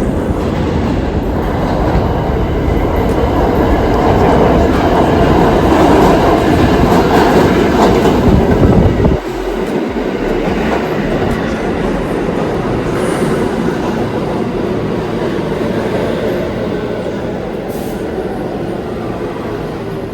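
New York City subway train of R46 cars running through the station, wheels clacking on the rails, growing louder for the first several seconds. About nine seconds in the deep rumble drops away suddenly, and the train noise then slowly fades.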